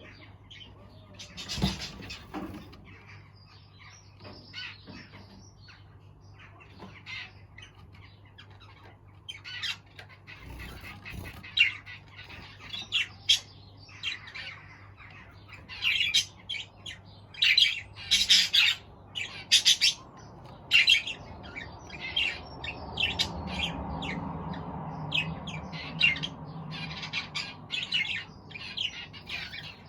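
Aviary birds calling: a steady run of short squawks and chirps, sparse at first and much busier from about ten seconds in, over a faint low hum. A broader low rumble swells and fades about two-thirds of the way through.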